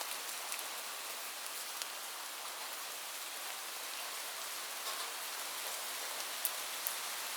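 Steady rain falling: a dense, even hiss with a few sharper drop ticks standing out, mostly in the second half.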